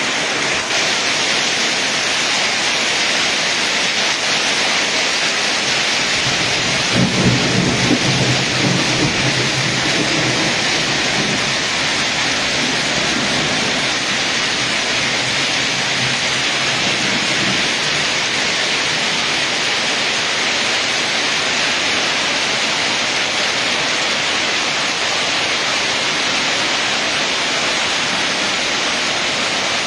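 Heavy rain and hail pelting the road and roofs: a steady, loud hiss. About seven seconds in, a low rumble swells and fades over a few seconds.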